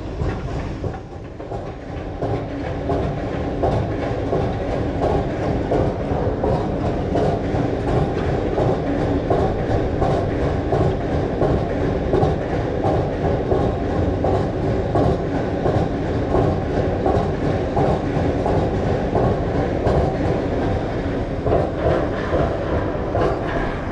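A train passing close by, a long steady rumble with rapid wheel clatter that keeps on through the whole stretch.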